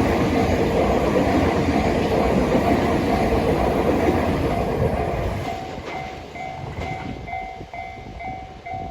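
Fukuoka City Subway 4000 series train running past over a level crossing, its wheels clattering on the rails, the noise falling away about five seconds in. A level-crossing warning bell rings steadily, about two to three strokes a second, and is plain once the train has gone by.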